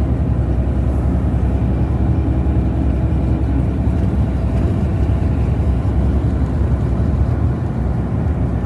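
Tour coach running along the road: a steady low rumble of engine and road noise.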